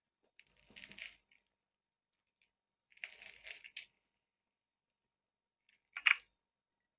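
Three short bursts of kitchen handling noise, rustling with light clatter, the last one a sharp click.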